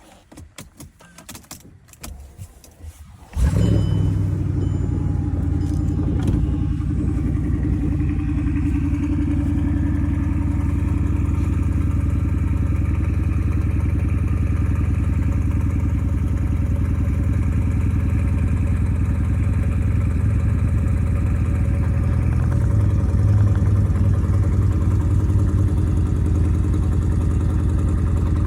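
A few light clicks, then the supercharged 5.4-litre V8 of a Mercedes CLS 55 AMG starts suddenly about three seconds in and settles into a steady cold-start idle.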